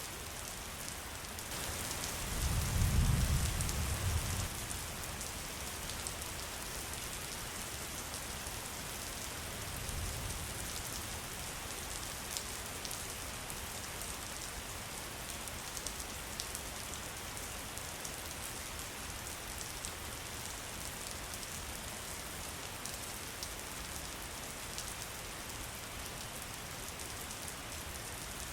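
Steady rain falling, with the patter of individual drops. A low rumble swells about two seconds in and fades by four or five seconds, with a fainter one near ten seconds.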